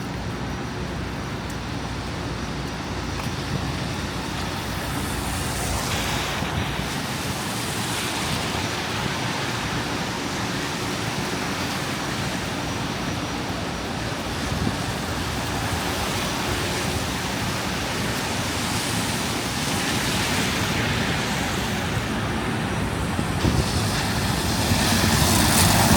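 City street traffic: vehicles passing, a steady noise that swells as they go by, a few times over.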